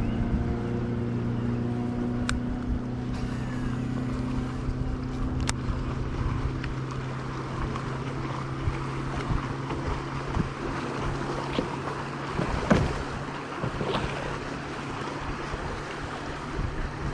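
A boat motor's steady low hum that sags slightly in pitch at first and fades out about twelve seconds in, over wind noise, with a few sharp clicks and a knock.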